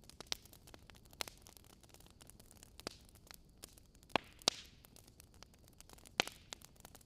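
Wood fire crackling: irregular sharp pops and snaps over a low hiss, with two louder pops close together a little past the middle and another near the end.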